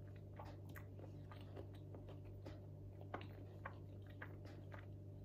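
Faint chewing of bread: soft, scattered mouth clicks over a low steady hum.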